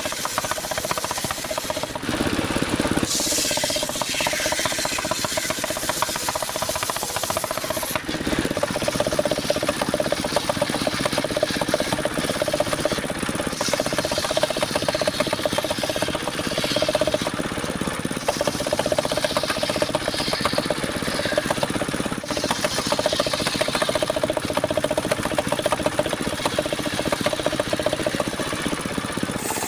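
Engine-driven circular sawmill running, its engine chugging rapidly under a steady hum from the spinning blade, as it saws a log of soft mahogany.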